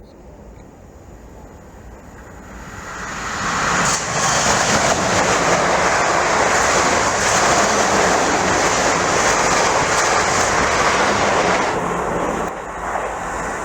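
A train passing at speed: a rush of wheel and air noise swells over a second or two, stays loud for about eight seconds, then falls away near the end.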